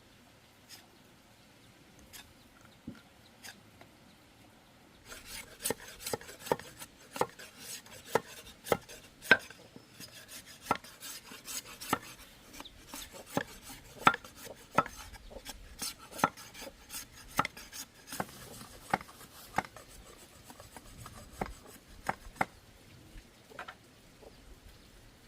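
Hand-tool work on bamboo: a run of sharp knocks, about two a second, starting about five seconds in and thinning out near the end.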